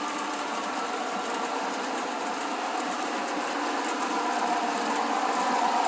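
Electric model trains running on the layout track, a steady whirring of motors and wheels on rail that grows a little louder over the last couple of seconds as a train comes closer.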